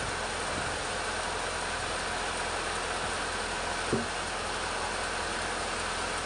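Band sawmill running steadily, a constant machine noise with a low hum, with one short knock about four seconds in.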